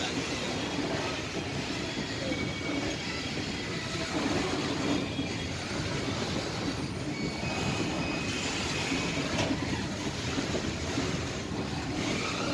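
Freight train of covered box wagons rolling past a level crossing: a steady rumble and clatter of steel wheels on the rails, with thin high wheel squeals now and then.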